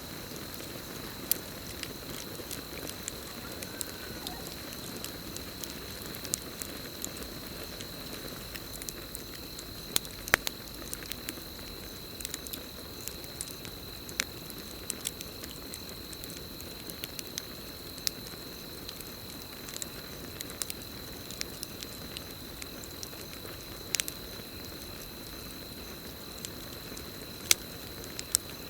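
Campfire burning, with irregular sharp crackles and pops over a low steady rush of flames. A continuous high steady cricket trill runs under it.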